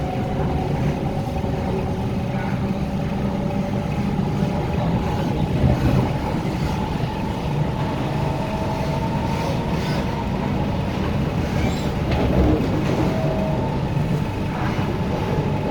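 Hyundai Rotem K-Train electric multiple unit running between stations, heard from inside the car: a steady rumble with an even whine from the traction motors.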